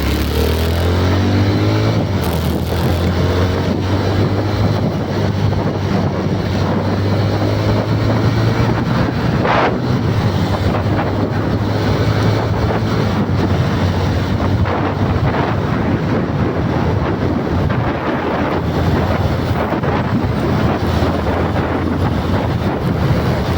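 Steady loud rumble with wind buffeting the microphone, with a low hum underneath through the first half.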